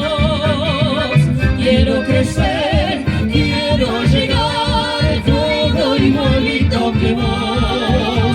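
Live chamamé band playing: a steady pulsing bass-and-guitar beat under a melody line with a wide vibrato.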